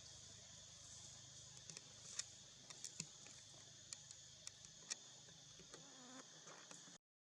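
Faint steady insect chorus, a high-pitched drone, with scattered small clicks; the sound cuts out briefly near the end.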